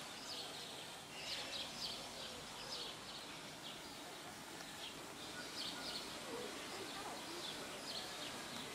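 Small birds chirping in short, high calls that repeat throughout, over a faint outdoor background hiss.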